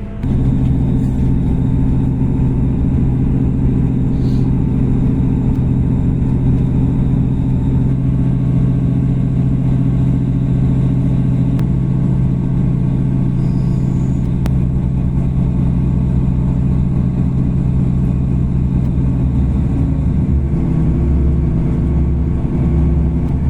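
Diesel passenger train heard from inside the carriage: a steady, loud low engine hum over the running rumble, its pitch shifting about 19 seconds in as the engine changes speed.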